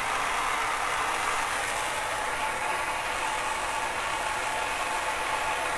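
Soldering torch flame burning with a steady hiss as a copper pipe joint is heated for a second pass of solder.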